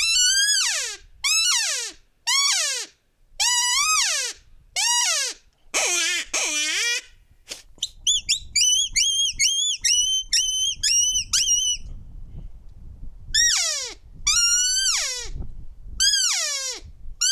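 Handmade open-reed elk call blown in a series of short calls, each starting high and falling in pitch. About halfway through comes a run of about a dozen quick, higher-pitched chirps, then more falling calls.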